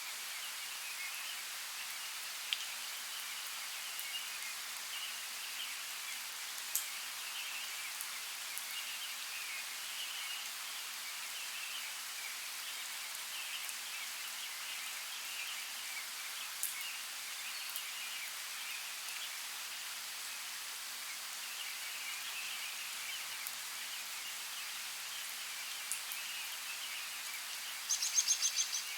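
Forest ambience: a creek's steady water hiss with scattered faint bird chirps and a few soft ticks. Near the end a brief, rapid chirping call stands out as the loudest sound.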